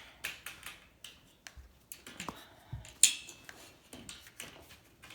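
Scattered small clicks and knocks with faint rustling between them, one sharp click about three seconds in.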